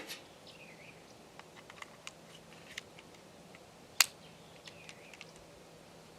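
Scattered faint clicks and ticks, with one much louder sharp click about four seconds in.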